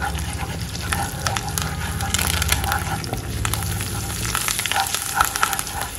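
Spice masala of chilli, turmeric and coriander powder frying in hot oil with curry leaves in a non-stick kadai, sizzling and crackling steadily as a spatula stirs it. This is the stage where the powders are fried in the oil on their own.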